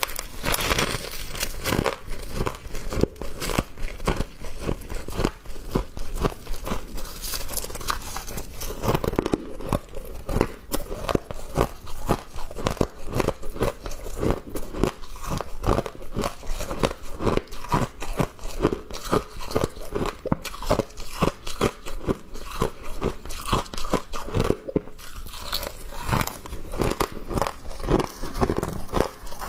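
A person biting and chewing thin ice coated with fresh frost: rapid, irregular crunching, several crunches a second, close to the microphone.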